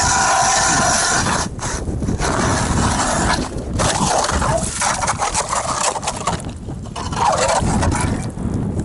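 Scraping and crunching on loose, snowy ice, in uneven stretches broken by short pauses.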